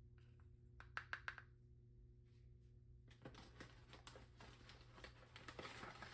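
Faint handling sounds: three quick taps about a second in, then about three seconds of scratchy, rustling clicks.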